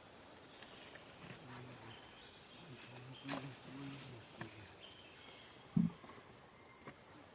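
Steady, high-pitched chorus of insects trilling without a break, with faint low voices in the background and a single soft thump about six seconds in.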